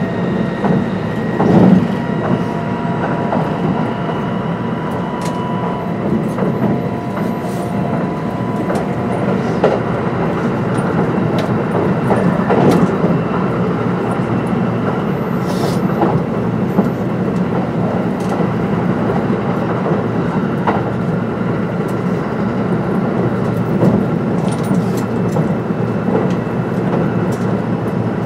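Kintetsu 22600 series train running along the line, a steady rumble of wheels on rail with intermittent clicks over rail joints. A faint steady high tone fades out about nine seconds in.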